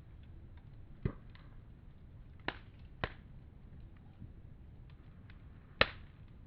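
Wood fire crackling, with faint ticks and four sharp pops, the loudest near the end.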